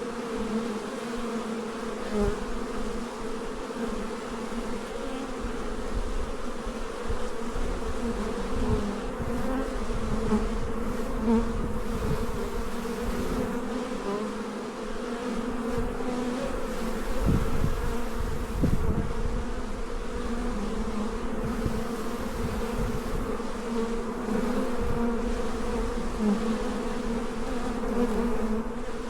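Steady, dense buzzing of many bees flying around a very active beehive. Low rumbles swell near the middle.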